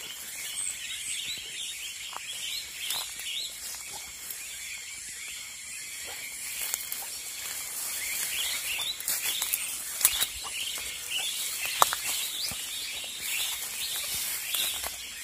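A large flock of small birds chirping continuously, many calls overlapping. A few sharp clicks stand out about ten and twelve seconds in.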